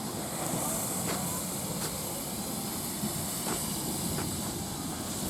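Steam hissing steadily from a standing BR Standard Class 4 tank steam locomotive, with a few faint clicks.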